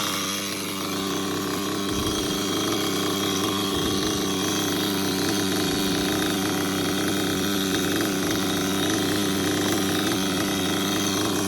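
Dynamite Big Red nitro engine, a small two-stroke glow engine, in an XTM Mammoth RC monster truck idling steadily once warmed up, after its idle gap was adjusted.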